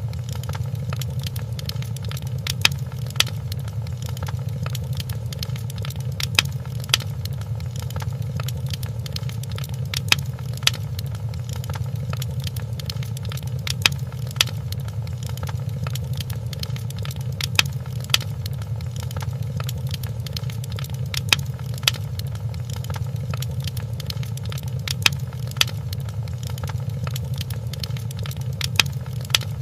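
Wood fire crackling in a fireplace: a steady low rumble with sharp pops that come in pairs about half a second apart, repeating roughly every four seconds.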